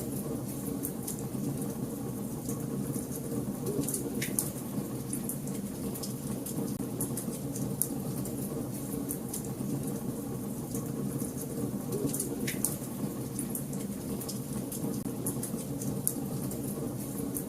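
Wood fire burning in a fireplace: a steady low rush of flames with frequent small crackles and snaps, and two louder pops, about four seconds in and near two-thirds of the way through.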